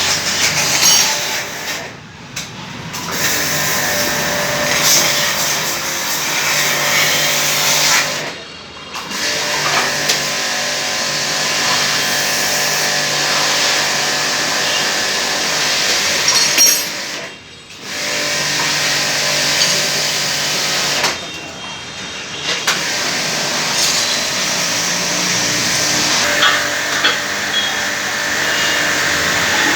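Steady mechanical whirring noise that cuts out briefly four times and starts again.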